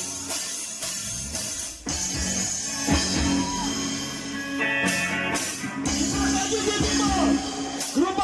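Live rock band music: drum kit strikes and guitar, with a voice singing over it in the last few seconds.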